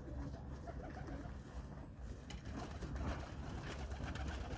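Domestic pigeons cooing faintly in a loft, with light clicks and rustling in the second half.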